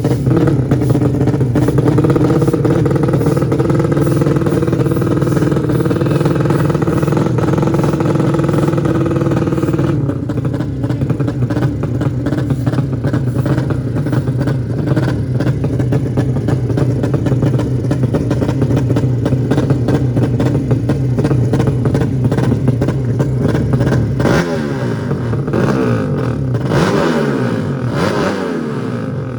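200cc drag-bike engines running loudly: a steady held engine note for about ten seconds, then a rougher, busier engine sound, with the engines revving up and down repeatedly near the end.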